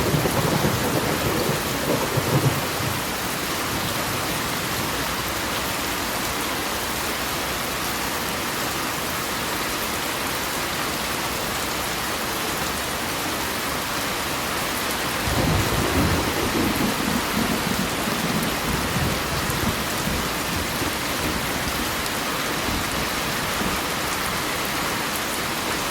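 Steady heavy rain with thunder: a low roll of thunder at the start lasting a couple of seconds, and another about fifteen seconds in that rumbles on for several seconds.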